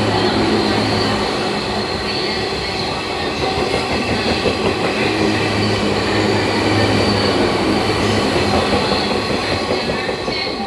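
JR 185-series electric multiple unit running along the platform: a loud, steady rail rumble with a low hum that comes and goes, fading near the end.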